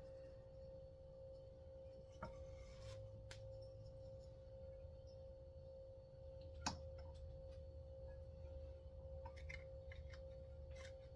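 Faint clicks and taps of small parts being handled while a chainsaw's recoil starter is taken apart, the sharpest click about two-thirds of the way through, over a steady high-pitched hum.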